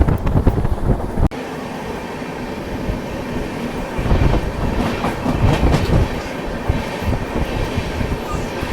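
Hirakhand Express passenger train running, heard from on board, with steady rumble and wheels clacking over the rails. The sound changes abruptly a little over a second in, with less low rumble after.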